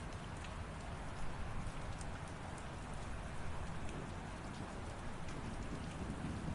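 Light rain falling steadily, with many scattered individual drops tapping.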